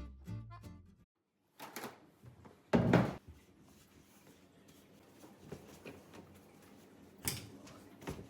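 Cupboard doors and drawers being opened and things handled: a few knocks and clunks, the loudest about three seconds in and another near the end, with quiet rustling in between. Background music stops in the first second.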